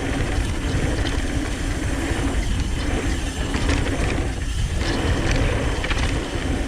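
Downhill mountain bike rolling fast down a trail: the rear hub's freehub ratchet buzzes as it coasts, over steady tyre noise, rattling clicks from the bike, and low wind rumble on the microphone.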